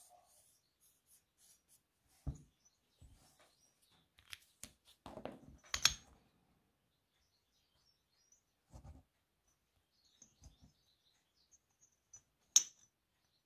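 Handling noise from metal ignition flywheel parts being picked up, turned over and set down on a rubber mat: scattered light clicks and knocks, the sharpest click near the end.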